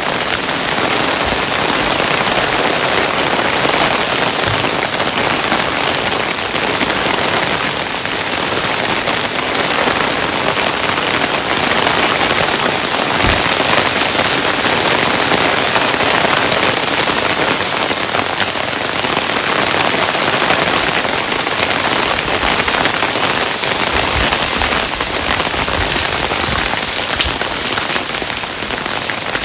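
Hail falling on a surface: a steady, dense hiss of many small impacts. A few deeper knocks stand out about halfway through and several more near the end.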